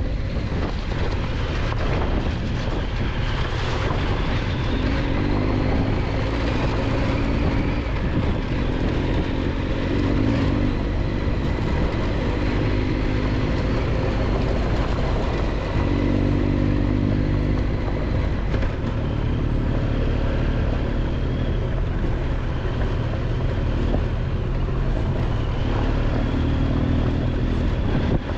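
Triumph Tiger 1200 XCX motorcycle's three-cylinder engine running on the move, pulling harder in several spells, over a steady rush of noise.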